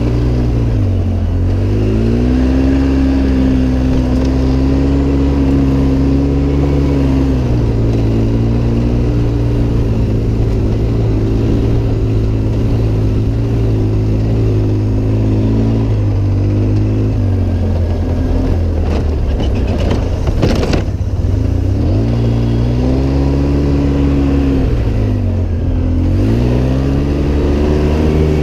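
Off-road vehicle's engine running under throttle, its pitch holding steady for long stretches and dropping then climbing again several times as the throttle is eased off and reapplied. A single brief knock about two-thirds of the way through.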